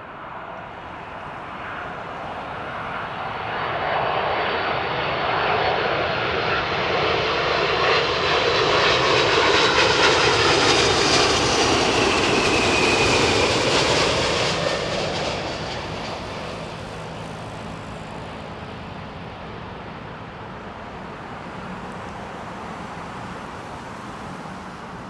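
Delta Air Lines Airbus A330-223 twin-engine jet airliner on landing approach, its engine sound swelling as it nears and passes, with a whine that falls in pitch as it goes by about halfway through. It then fades to a lower, steady rumble.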